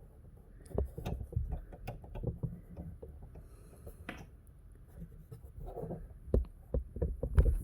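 Small clicks, taps and rubbing as thread is handled at a Singer sewing machine while the bobbin thread is drawn up into a loop. A sharp click comes about four seconds in, and a run of louder taps comes near the end.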